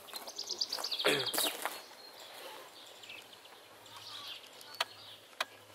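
Wild birds singing: a fast, high trill of about a second near the start, then scattered fainter chirps. A couple of sharp clicks near the end.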